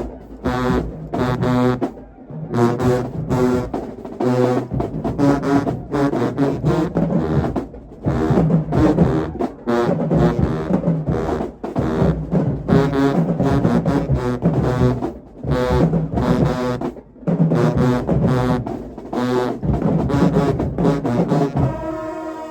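Marching band brass section playing loud, short rhythmic blasts over drums. It moves into held brass chords near the end.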